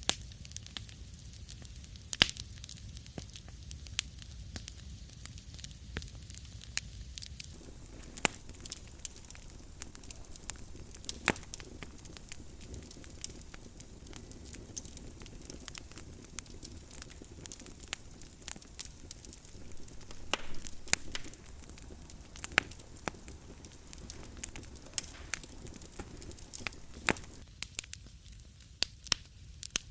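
Wood fire crackling in a fireplace: frequent sharp pops and snaps at irregular intervals over a low steady rumble, with a soft hiss joining from several seconds in until a few seconds before the end.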